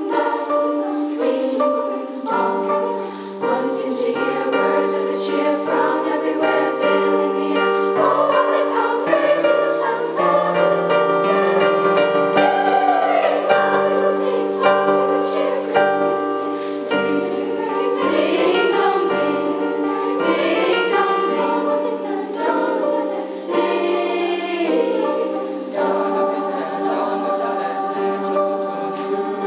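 Middle school treble choir singing a holiday song, voices holding sustained chords in harmony.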